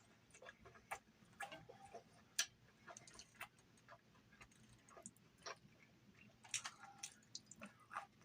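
Faint, irregular clicks and smacks of a person eating: chewing and mouth sounds.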